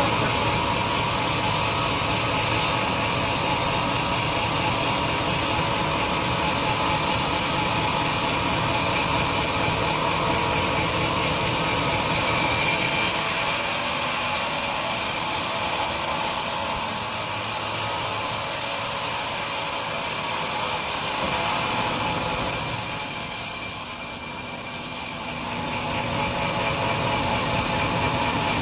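Large sawmill bandsaw running and cutting a big log, a steady machine noise with a constant hum. A louder high hiss comes in about halfway through, breaks off briefly, returns, then stops a few seconds before the end.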